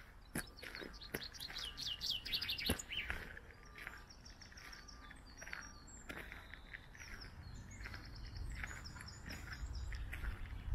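Small songbirds singing. A fast run of notes falls in pitch for about two and a half seconds, then another bird repeats short high chirps. A low rumble rises near the end.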